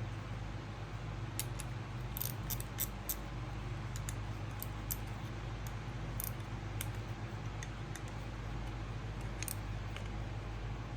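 Scattered small metallic clicks and clinks of hand tools and engine parts being handled and fitted, over a steady low hum.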